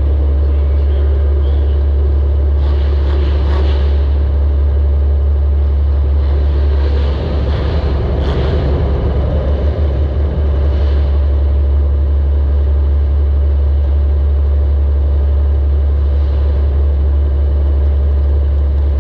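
Demolition derby compact car's engine running under a heavy, steady low rumble, as heard from a camera mounted on the car. It gets louder and rougher about three seconds in, and again around eight seconds in.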